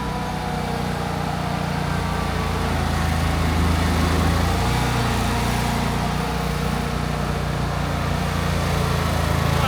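An engine running steadily at idle, a low even drone that shifts slightly in pitch now and then.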